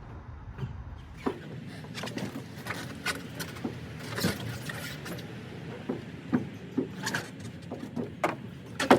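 Irregular knocks and thumps of tires and rims being shifted and stacked in a pickup bed, the sharpest one near the end. A low hum underneath stops about a second in.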